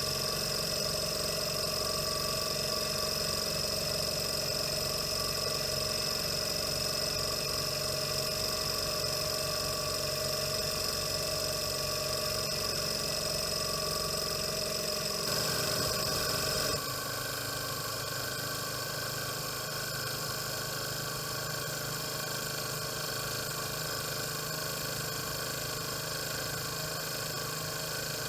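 PM Research Solar Engine #4 model Stirling engine running steadily, a constant mechanical whir with several held tones. About sixteen seconds in, the sound switches abruptly to a slightly quieter, differently pitched steady run.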